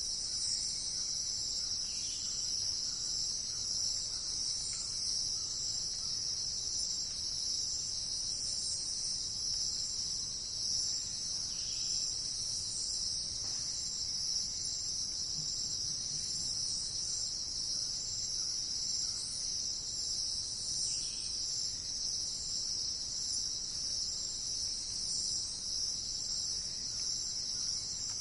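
Steady, unbroken high-pitched chorus of insects in a forest, with a few faint short bird calls now and then.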